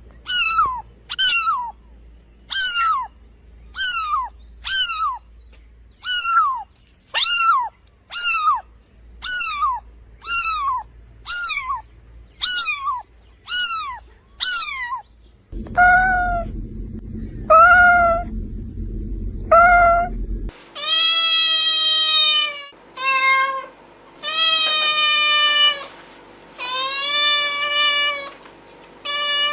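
Domestic cat meowing over and over. First comes a quick run of short meows that drop in pitch, about one every 0.7 s. About halfway in there are a few slower meows over a low hum, and from about two-thirds in, longer drawn-out meows.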